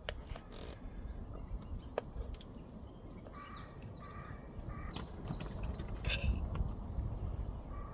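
A crow cawing in the background, one drawn-out call a little past three seconds in, with small birds chirping and a few sharp clicks over a low steady outdoor rumble.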